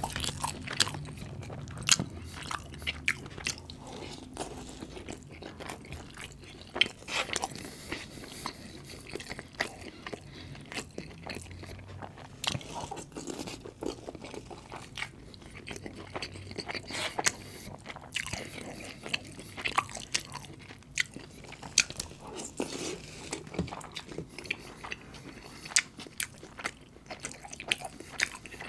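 Close-miked chewing and eating: wet mouth sounds broken by irregular sharp crunches, from a person eating samosa dipped in sauce and spoonfuls of butter chicken and rice.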